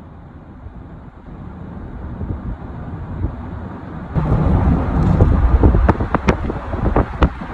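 Strong dust-storm wind buffeting the microphone: a low rumble that grows louder and jumps up about four seconds in, with a few sharp clicks near the end.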